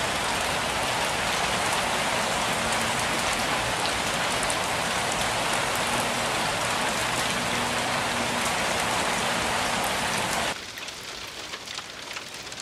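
Steady rainfall, a dense even hiss of rain. About ten seconds in it drops suddenly to a softer rain with scattered small ticks of drops.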